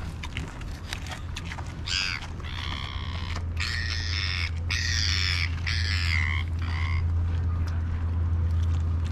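A bird squawking in a run of about six short, harsh calls, over a steady low rumble.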